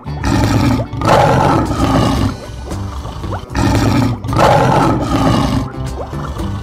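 Lion roaring twice, each roar about two seconds long, over background music.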